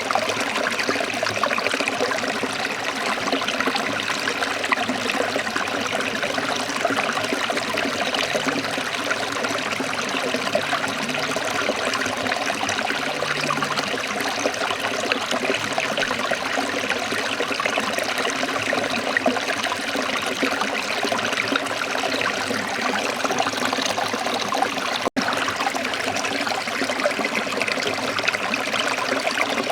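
Waterfall: a steady rush of falling water, broken once by a split-second gap near the end.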